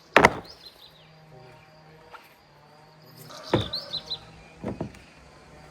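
Small birds chirping in short bursts, with a few sharp knocks: a loud one at the start, then two more about three and a half and four and a half seconds in.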